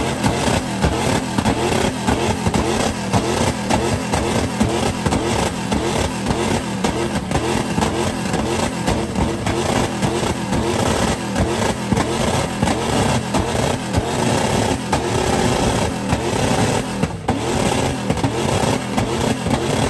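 Loud motor-vehicle engine noise at an uneven, fluctuating level.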